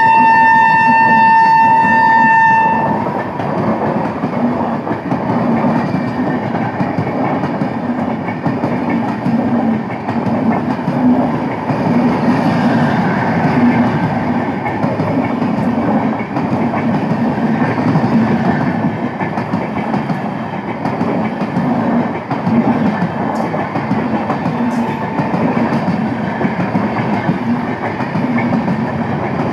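A WAP-5 electric locomotive's horn holds one steady note and cuts off about three seconds in, sounded as a warning for a level crossing. The train then runs past with a steady rumble and the rhythmic clickety-clack of wheels over rail joints.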